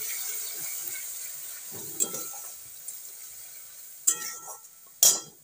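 Ground onion, garlic, chilli and cumin masala paste sizzling in hot mustard oil in a kadhai, the sizzle slowly dying down. A metal spatula scrapes and knocks against the pan three times, about two, four and five seconds in, the last the loudest.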